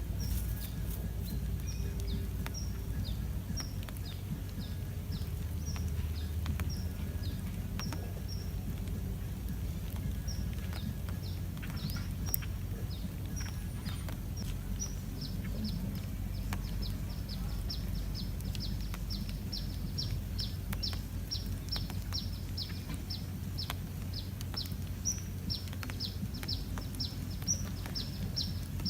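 A bird chirping over and over in short falling chirps, sparse at first and coming about three a second from about halfway, over a steady low rumble.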